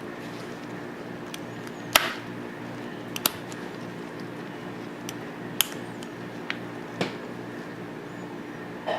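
Sharp metal clicks and taps from Tokarev TT-33 pistol parts and tools being handled and fitted during reassembly, about five distinct ones a second or two apart, the loudest about two seconds in. A steady low hum runs underneath.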